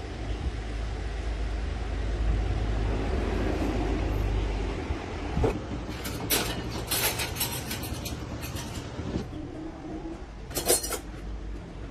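Dump truck engine running with a steady low rumble, which eases about five seconds in. Then comes a run of sharp metallic clinks and knocks, with one more loud clink near the end.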